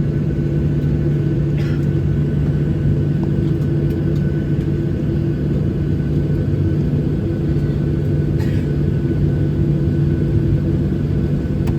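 Boeing 737-800's CFM56 jet engines running at low power, heard from inside the cabin as a steady low drone with a thin, steady whine above it.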